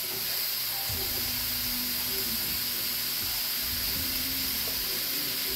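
Chicken and vegetables sizzling steadily in a hot frying pan, with a few soft knocks as potato chunks are cut and dropped into the pan.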